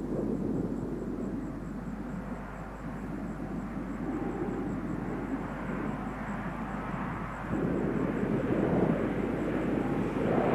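Lockheed C-130 Hercules turboprop engines running, a steady rumble that grows louder about three quarters of the way through.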